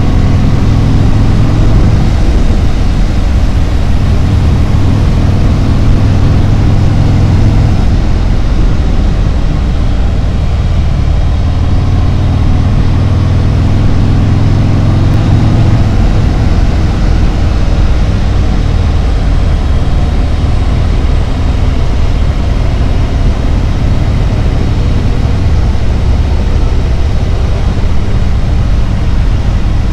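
Harley-Davidson Road Glide's V-twin engine running steadily on the road, with a deep, low engine note. The note shifts slightly about halfway through.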